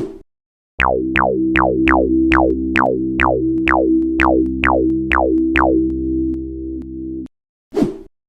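Electronic music: a held synthesizer chord under a quick run of about a dozen falling-pitch synth zaps, evenly spaced. The chord cuts off suddenly near the end, with a short sound effect just before the music starts and another just after it stops.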